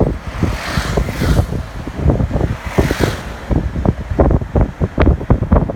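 Wind buffeting the microphone in rapid, uneven gusts while filming from a moving vehicle, with a brief rising and fading road hiss twice.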